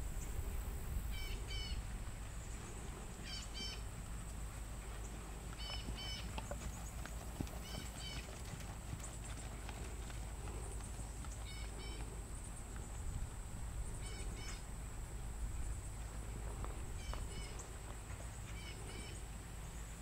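A bird repeating a short chirping call every two to three seconds, over a steady low rumble and a thin high whine.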